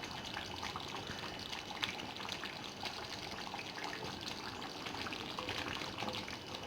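Chicken curry simmering in a pot on the stove: a steady bubbling with small pops.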